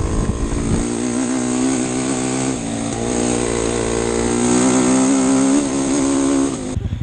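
Dirt bike engine running at a fairly steady rev with small rises and falls, then cutting off abruptly near the end.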